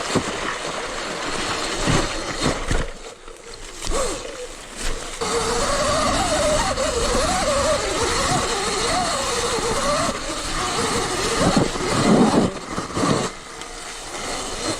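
Sur Ron electric dirt bike being ridden off-road: steady wind and trail noise with a few knocks, and in the middle a whine from the motor that rises and falls in pitch with the throttle.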